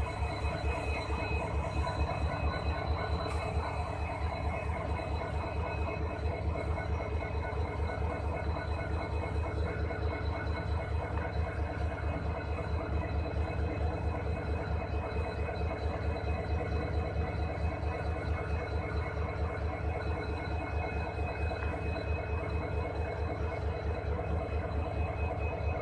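Locomotive running, heard from inside the cab: a steady low, rapid pulsing with faint high whining tones above it.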